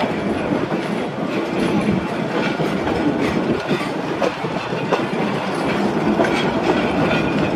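Narrow-gauge passenger cars rolling along the track, heard from aboard the train: a steady rumble of wheels on rail with scattered clicks from the rail joints.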